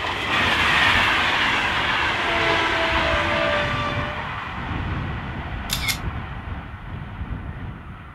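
CP Alfa Pendular electric tilting train passing at speed: a loud rushing of wheels and air that peaks about a second in and then fades, with a whine that falls in pitch as it goes by. A sharp double click sounds about two-thirds through.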